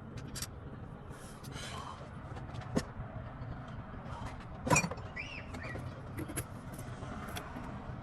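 Scattered light clicks and knocks, as of tools and parts being handled, with two louder knocks, one about three seconds in and one near five seconds, over a steady low hum. A faint brief squeak comes just after the second knock.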